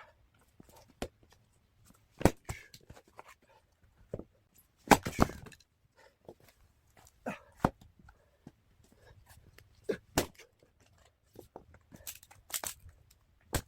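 Axe chopping firewood logs: sharp wooden strikes every two to three seconds, the loudest about five seconds in, with smaller knocks of wood between.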